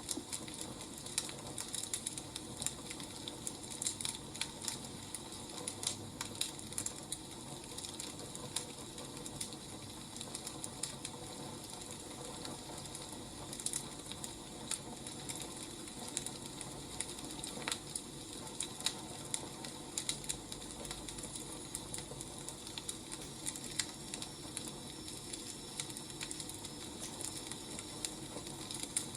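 Firewood burning with a steady crackle, broken by many irregular sharp pops and snaps.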